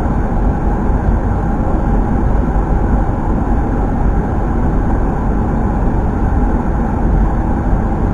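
Steady cabin noise on a Boeing 737-800 flight deck during final approach: a continuous rush of airflow over the nose with a deep engine hum underneath.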